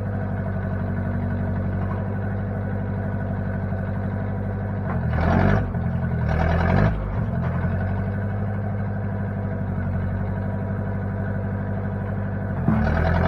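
1960 Case backhoe's engine running steadily at idle, with two short surges about five and seven seconds in and another near the end, where it grows louder and rougher and its pitch shifts.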